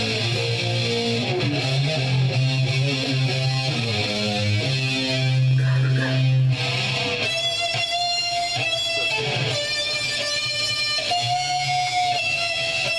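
Electric guitar played through an amplifier for a sound check. It plays a low, thick riff for the first half, then switches to higher, ringing single notes about seven seconds in.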